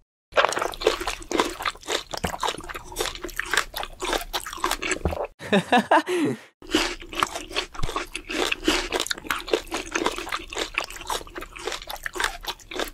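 Close-up eating sounds: crunchy bites and chewing of a chocolate-coated ice cream bar, a dense run of crisp crunches with a short pause about five and a half seconds in.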